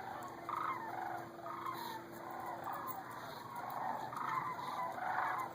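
A large flock of migrating birds calling overhead: many overlapping calls, continuous throughout.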